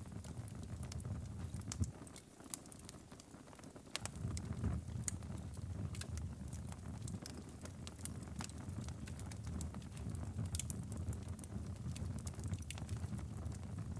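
Wood fire crackling, with irregular sharp pops over a low steady rumble. The rumble drops away for a moment about two seconds in and comes back near the four-second mark.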